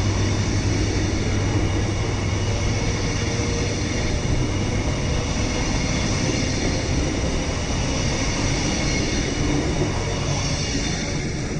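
Caledonian Sleeper Mark 5 coaches rolling past close by: a steady rumble of wheels on rail with a high whine over it. It eases off near the end as the last coach passes.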